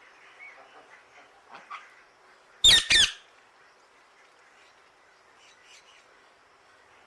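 A parrot gives two loud, harsh squawks in quick succession a few seconds in, with faint chirps before and after.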